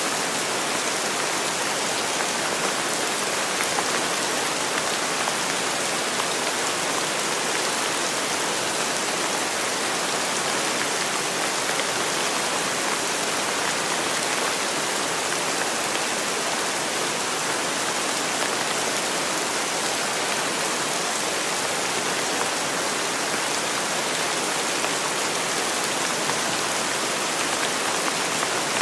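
Steady, even rain falling and pattering on surfaces, with no thunder or other sounds.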